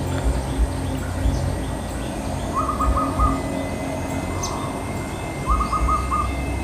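Zebra dove (perkutut) calling: two short runs of quick, staccato cooing notes, about three seconds apart, over a low rumble. It is calling to its mate.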